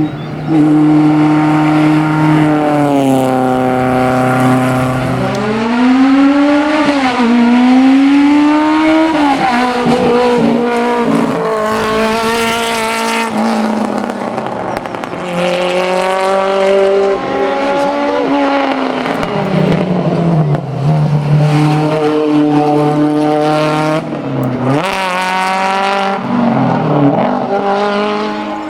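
Race-prepared small hatchback rally cars driven flat out, first a Ford Fiesta and then, from about five seconds in, a Citroën AX. Their engines rev high and drop back again and again through gear changes and lifts for corners.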